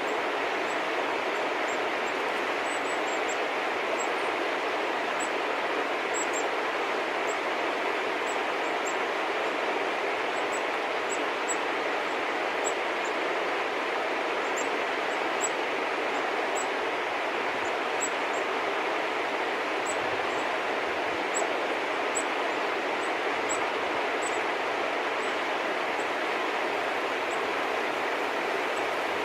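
Many short, high bird chirps scattered over a steady, even rushing noise.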